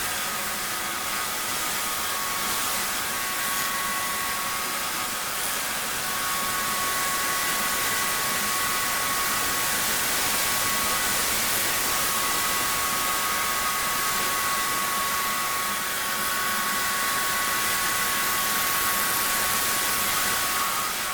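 Pressure washer spraying: a steady hiss with a constant high whine from the machine.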